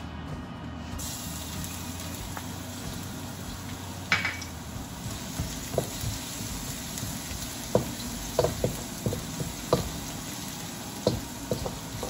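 Minced garlic sizzling in hot oil in a stainless steel wok, with a brief louder burst of sizzle about four seconds in. From about eight seconds on, a wooden spoon knocks and scrapes against the wok as the garlic is stirred.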